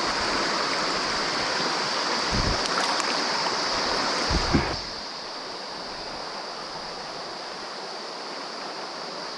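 Mountain stream water rushing steadily, with a couple of dull low bumps near the middle; the rushing turns noticeably quieter about five seconds in.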